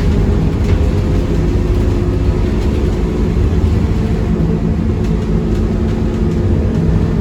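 Scania K230UB city bus's diesel engine running steadily under way, heard from inside the passenger cabin along with road rumble.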